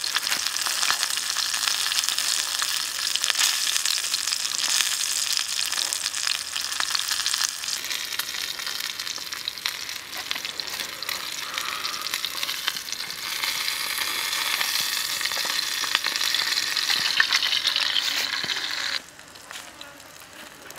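Chicken wings, garlic cloves, shallots and a red chili sizzling in hot oil in a square pan: a steady high hiss full of small crackles and spatters. The sizzle cuts off abruptly near the end.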